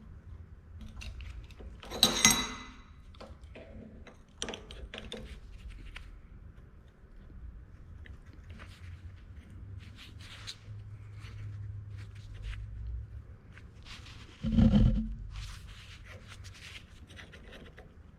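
Steel pieces and a clamp being handled and set up for welding: a loud clank that rings briefly about two seconds in, a duller heavy thud near the end, and small scrapes and clicks in between.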